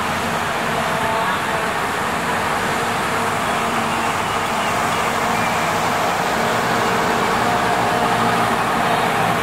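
Passenger carriages of a steam-hauled train rolling past, a steady rumble of wheels on rail.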